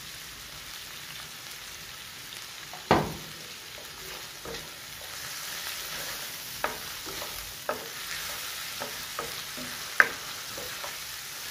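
Chicken pieces and browned onions sizzling in hot oil in a wok, with a steady hiss, while a plastic slotted spatula stirs them and scrapes and knocks against the pan. There is a loud knock about three seconds in, several lighter ones after, and another loud one near the end.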